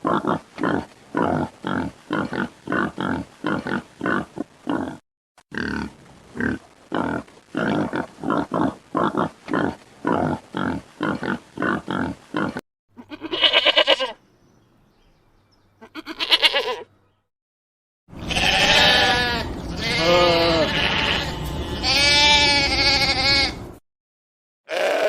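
Farm animals calling: rapid, rhythmic grunting at about three grunts a second for the first half, then a few short calls followed by long, wavering bleats.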